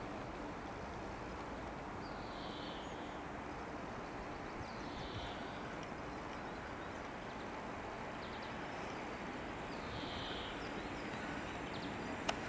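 Steady outdoor background noise with a distant electric multiple-unit train approaching, growing slightly louder near the end. A few faint high chirps come through, and there is a sharp click just before the end.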